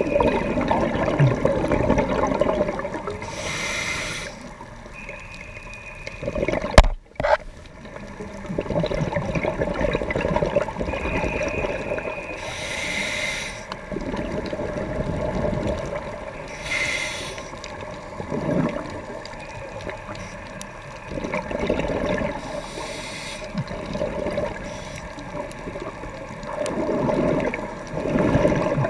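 Scuba diver breathing through a regulator underwater: hissing inhalations every four to six seconds, each followed by a rush of bubbling exhaled air. A single sharp knock comes about seven seconds in.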